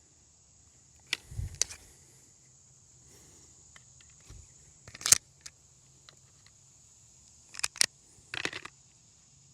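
Scattered small metallic clicks and clinks of shooting gear being handled, the sharpest about halfway through and a few more near the end, over a faint steady hum.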